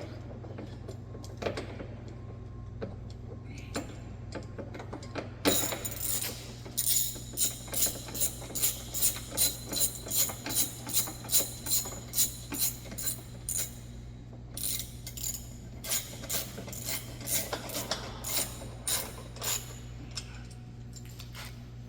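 Hand ratchet wrench clicking as bolts are tightened on a vehicle bumper, about two swings a second in two long runs with a short pause between, over a steady low hum.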